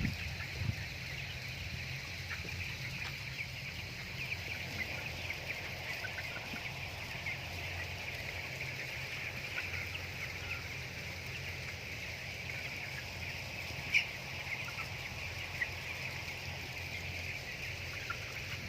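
A flock of broiler chickens peeping and chirping together in a steady, dense chorus, with one louder chirp about three-quarters of the way through. A low steady hum runs underneath.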